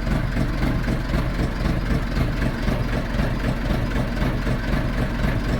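Fordson E27N tractor's Perkins P6 six-cylinder diesel engine idling steadily.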